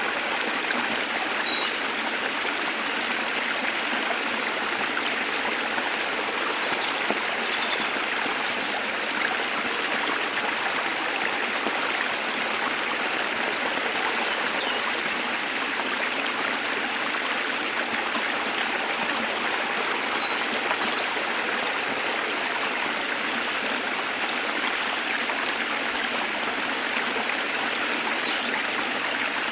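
Waterfall's water falling steadily, an even rush of noise. A few faint, short, high bird chirps come now and then.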